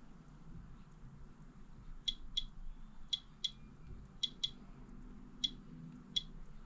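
A series of sharp, light clicks, about eight, the first six in close pairs a quarter-second apart.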